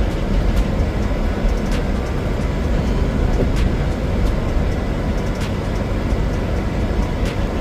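A car running, a steady low rumble of engine and road noise with a few faint scattered clicks.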